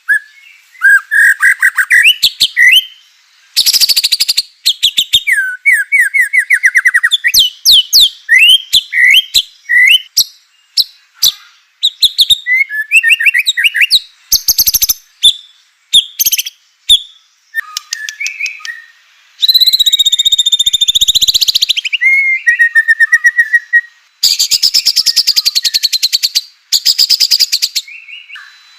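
White-rumped shama (murai batu) singing loud, varied song phrases: fast runs of whistled notes, rapid repeated chips and harsh rattling 'kretekan' notes. There is a long harsh rattle about two-thirds of the way in, and another near the end. The song is a fired-up, aggressive song of the kind used to provoke other shamas into singing.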